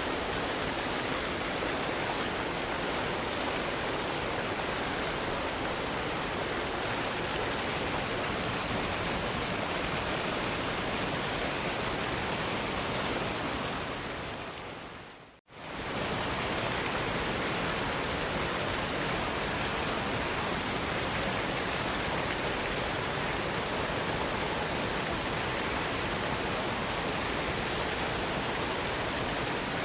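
Steady, dense rushing of a waterfall, with no other sounds. It fades out briefly about halfway through and comes straight back at the same level.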